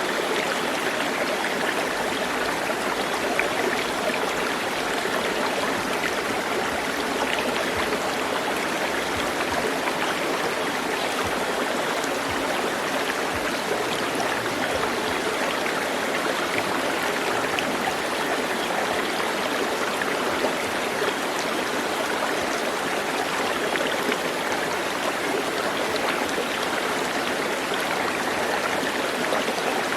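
A stream of running water, a steady, even rush that does not change.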